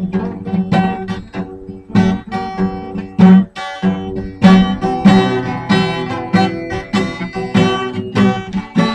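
Guitar playing a blues accompaniment: repeated plucked and strummed notes in a steady rhythm.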